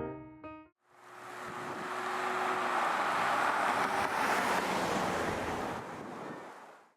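Piano music ends within the first second; then a steady rushing noise fades in, holds for several seconds and fades out near the end.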